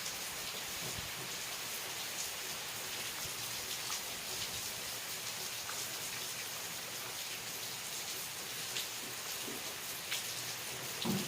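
Steady rain falling: an even hiss with scattered individual drops ticking, and one soft low thump near the end.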